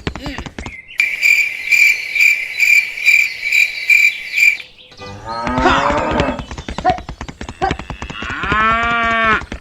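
Cricket-like chirping, a steady high tone pulsing about two to three times a second for several seconds, followed by cattle mooing in the second half, with one clear moo near the end.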